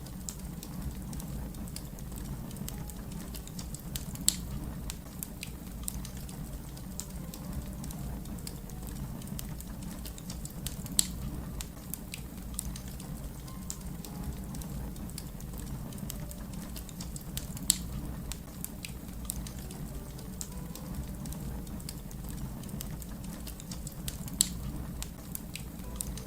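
Wood fire crackling: a steady low rumble of flames under a constant scatter of small crackles, with four louder pops about seven seconds apart.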